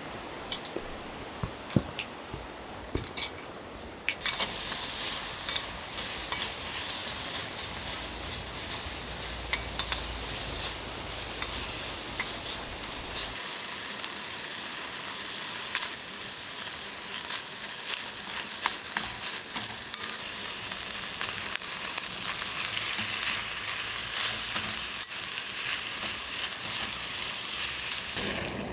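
Food sizzling in a hot pan: the sizzle starts suddenly about four seconds in, after a few light clicks, and carries on steadily with small crackles until near the end.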